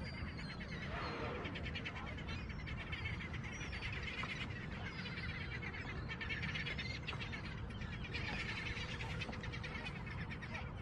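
Many birds calling at once in a dense, continuous chatter over a low steady rumble.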